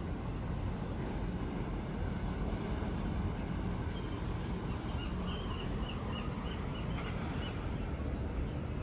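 Steady low rumble of wind and a large ship under way at sea. Near the middle a bird chirps about eight times in quick succession.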